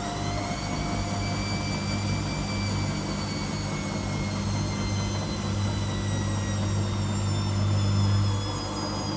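Washing machine drum spinning at speed: a motor whine over a low hum. The whine finishes climbing in pitch just at the start, then holds and drifts slowly lower.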